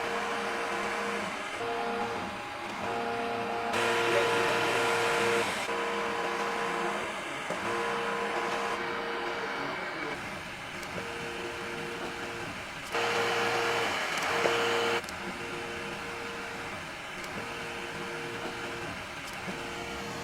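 Computerised sock knitting machines running, a steady mechanical whine that breaks off and resumes every second or so, with two louder, noisier stretches of about two seconds, near the start and past the middle.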